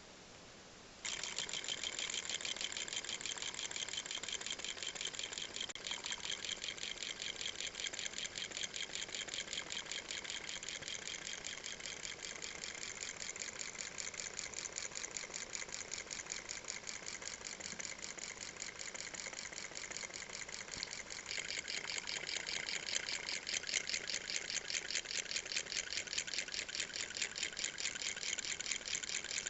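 Homemade solenoid engine spinning a 2.5-inch hard-disk platter: a rapid, even clatter as the solenoid rod fires and the microswitch clicks on every stroke. It starts about a second in and grows louder a little past two-thirds of the way through.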